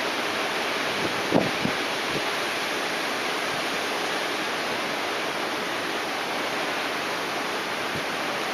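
Steady rushing noise of typhoon wind and rain, with a brief gust buffeting the microphone about a second and a half in.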